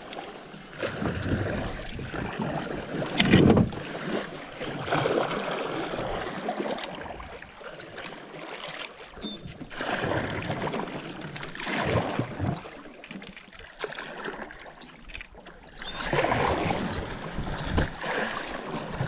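Canoe paddle strokes in water, with splashing and sloshing in irregular bursts every couple of seconds. The strongest burst comes about three and a half seconds in, and wind rumbles on the microphone.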